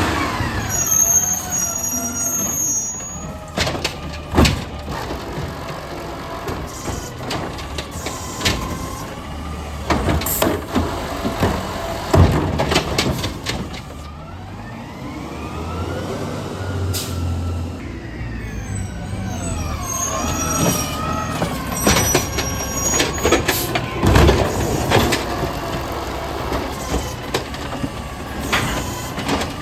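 Garbage truck at work: its engine revs up and down to drive the lifting gear, with repeated bangs and clanks of a bin being lifted and emptied. Short high beeps come near the start and again about two-thirds of the way through.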